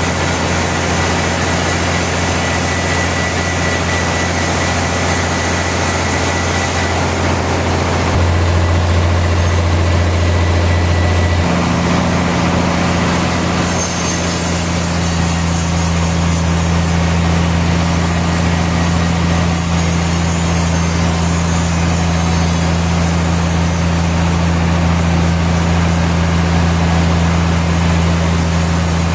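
Sawmill machinery running steadily: a loud engine-driven hum whose pitch steps about eight seconds in and again about eleven seconds in. A thin, steady high whine sits over it for the first several seconds.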